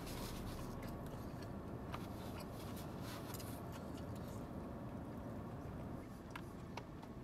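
Faint eating sounds of a man chewing a taco and handling its paper wrapper, with a couple of soft clicks near the end, over a steady low hum inside a car.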